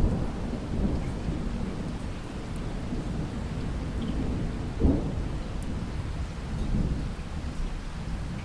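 Steady rain with thunder: a sudden thunderclap at the start rumbling on, a second sharp crack about five seconds in, and another swell of rumble near the end.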